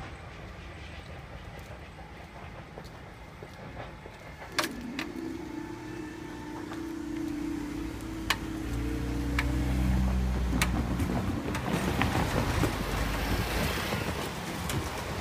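A vehicle's engine running and getting louder from about eight seconds in, after a sharp click and a steady hum.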